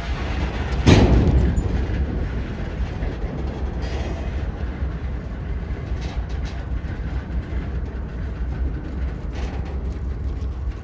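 Freight train rolling with a steady low rumble, and one loud bang about a second in that dies away quickly.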